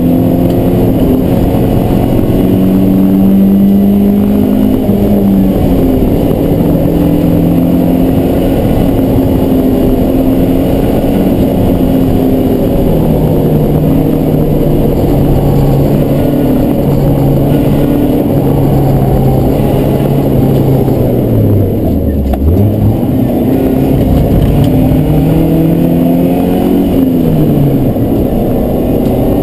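BMW E36 318is four-cylinder engine heard from inside the cabin at full racing pace, revving up through the gears. There is a gear change about five seconds in. About 22 seconds in the revs dive low as the car slows for a corner, then climb again, and there is another shift near the end.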